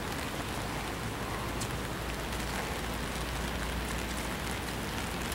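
Steady hard rain falling, an even hiss with a low rumble underneath.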